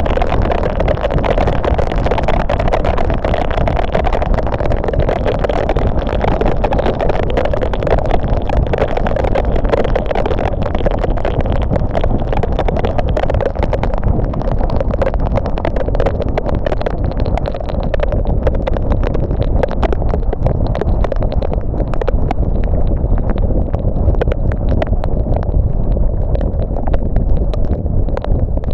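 Car driving on a wet road in the rain: steady rumble of engine and tyres with a hiss of tyre spray and many small ticks of raindrops. The high hiss thins out about halfway through.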